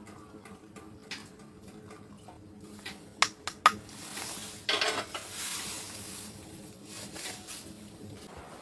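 Cookware clinking, with two sharp clinks about three seconds in, followed by a couple of seconds of sizzling hiss.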